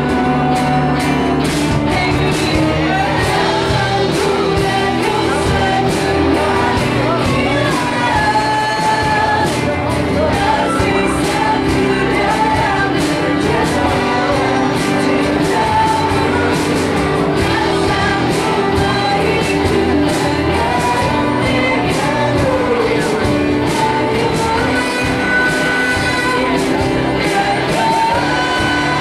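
Rock band playing live: a singer holds and slides between sung notes over electric guitars, bass, keyboard and drums, with cymbals struck in a steady beat.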